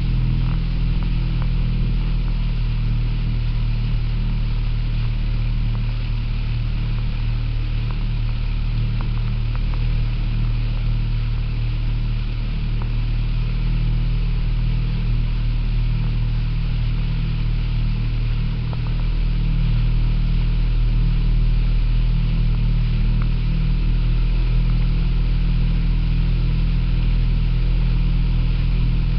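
Motorboat engine running steadily at speed, a low drone heard from aboard the boat, growing a little louder about two-thirds of the way through.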